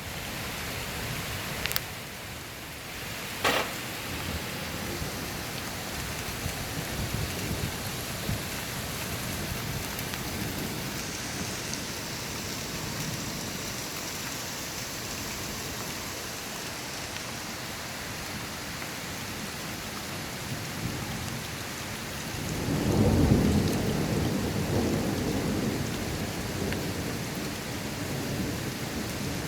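Steady rain falling in a thunderstorm, with a couple of sharp taps in the first few seconds. About two-thirds of the way through, a deep thunder rumble swells in and slowly dies away.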